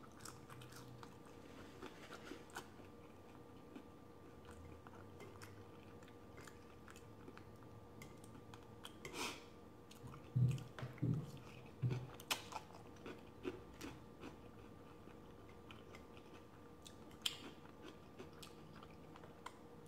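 A person chewing crispy fried food, French fries among it, close to the microphone: quiet, irregular crunches and wet mouth clicks, with a few louder bites around the middle.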